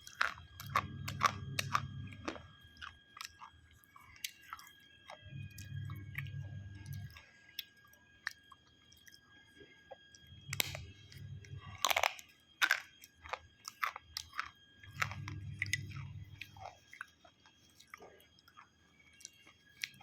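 A person chewing and biting crunchy food close to the microphone, with sharp crunches scattered irregularly and a cluster of louder ones about halfway through.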